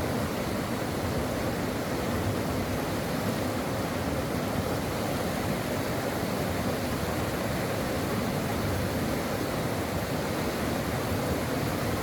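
Stream water flowing: a steady, even rush of running water.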